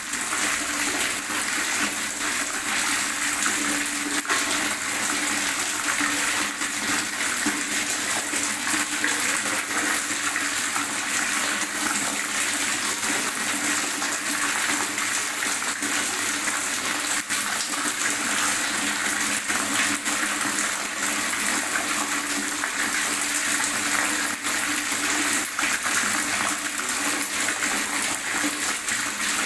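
Water gurgling steadily and continuously.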